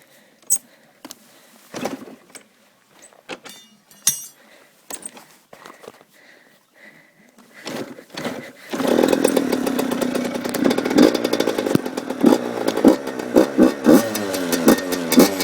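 A 2002 Yamaha YZ85's 85cc two-stroke single with a Pro Circuit expansion pipe being kick-started after a rebuild: several seconds of scattered clunks and knocks, then the engine catches about nine seconds in and runs with a buzzy two-stroke note. From a couple of seconds later it is blipped repeatedly, the pitch jumping up and dropping back each time.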